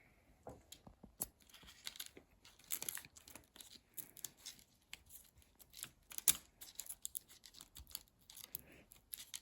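Faint rustling, scratching and crinkling of a painted leaf and paper being handled and pressed down, with scattered small ticks and taps; the sharpest tap comes about six seconds in.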